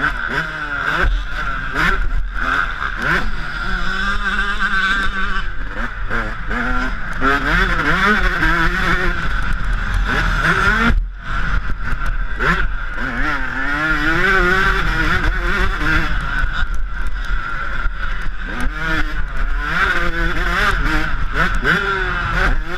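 Yamaha YZ125 two-stroke single-cylinder motocross engine being ridden hard, its revs rising and falling over and over as the throttle is opened and shut. About eleven seconds in the sound cuts out sharply for a moment.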